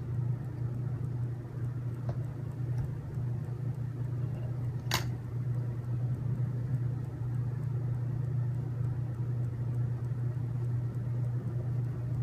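Steady low mechanical hum, like a room fan or appliance running, with one sharp click of a small part about five seconds in.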